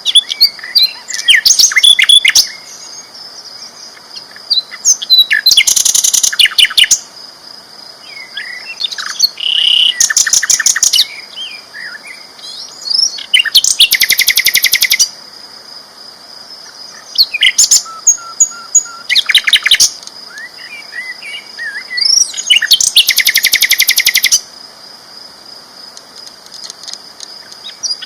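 Sikatan londo flycatcher singing loudly: bursts of rapid chattering trills and sharp whistles, delivered as short phrases of a second or two with pauses of a few seconds between them. A faint steady high tone runs underneath.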